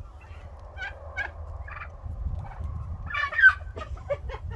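A flock of domestic turkey hens (slate, Narragansett and mixed breeds) calling: a string of short, repeated calls, with a louder burst of several calls about three seconds in.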